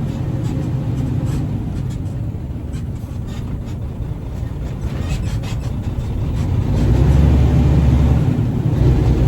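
Diesel engine of a tri-axle dump truck pulling away and accelerating, its low rumble growing louder about seven seconds in, with a brief drop near the end before it picks up again.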